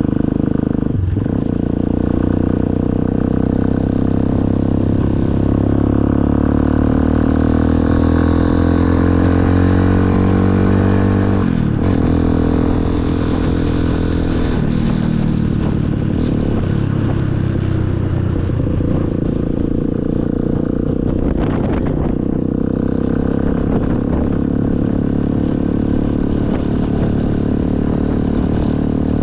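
Motorcycle engine running steadily under way, its pitch drifting with the throttle and briefly breaking three times: about a second in, near the middle, and about two-thirds through.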